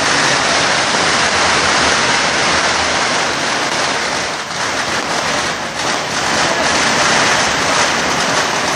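A string of firecrackers going off in a dense, continuous crackle, dying away right at the end.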